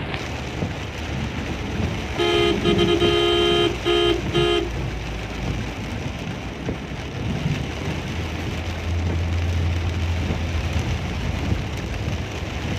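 A vehicle horn honking: one long blast of about one and a half seconds, then two short toots, over the steady noise of heavy rain.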